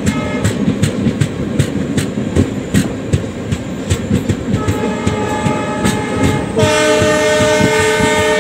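Express train wheels clicking over rail joints at speed, a few clicks a second, heard from on board. A train horn sounds briefly at the start, then again from about halfway, faint at first and loud as a steady multi-note chord for the last couple of seconds.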